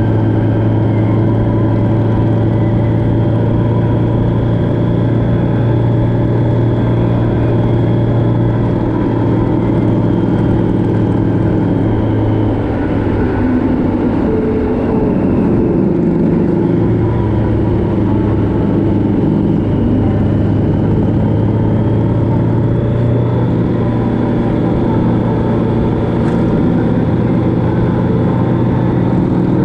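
Motorcycle engine running steadily at cruising speed on the move. Its pitch drops and wavers for a few seconds about halfway through, then settles back to a steady drone.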